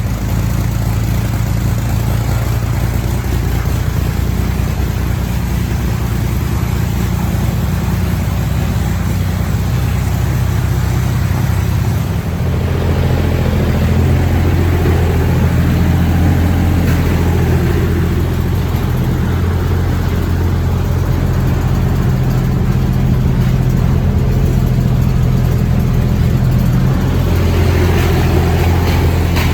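1963 Corvair Rampside's air-cooled 145 cubic-inch flat-six engine running steadily. About twelve seconds in it settles into a slightly louder, deeper note and holds it.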